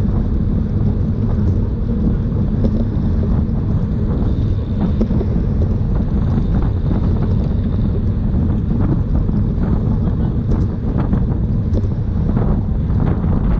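Steady, loud wind rumble on the microphone of a camera riding along on a bicycle at race speed, with scattered faint ticks and rattles.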